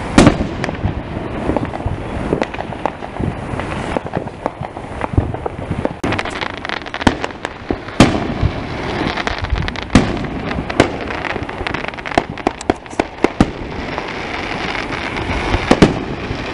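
Fireworks going off: a series of sharp bangs and pops, the loudest right at the start and at about eight and ten seconds in, with a quick run of crackling pops around twelve to thirteen seconds in.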